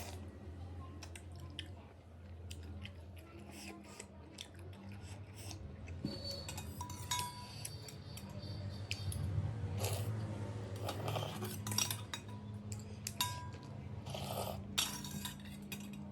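Spoon and utensils clinking and scraping against a bowl of noodle soup during eating, in scattered irregular knocks with a few short ringing clinks.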